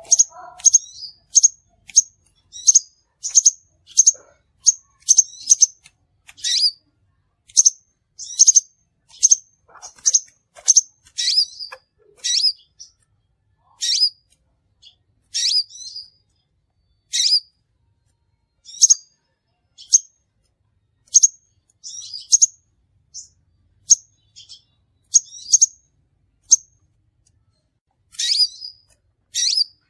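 Crimson sunbird (sepah raja) calling: a series of short, sharp, high-pitched chips, about one or two a second with uneven gaps, as used for a bird-trapping lure recording.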